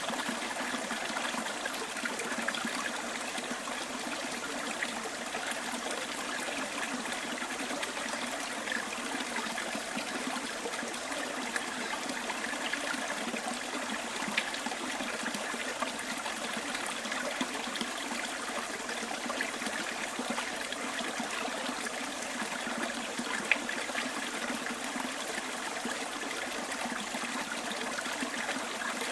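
Small bush stream running and trickling steadily, with a few brief louder splashes.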